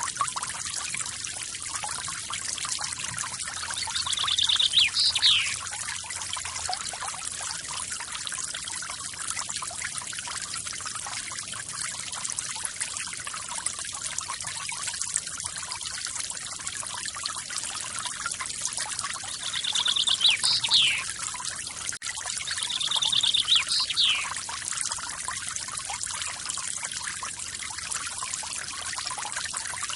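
Forest waterfall splashing steadily, with a bird calling three times, once a few seconds in and twice in the second half. Each call is a short rapid trill followed by a quick downward slur.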